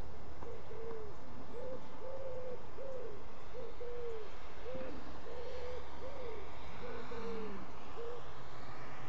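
A bird calling in a long series of short, low hooting coos, each note rising then falling, about two a second.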